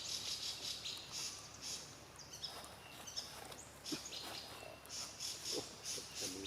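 Outdoor ambience with repeated high-pitched chirping in short pulses, about two or three a second, and a few faint, short low sounds.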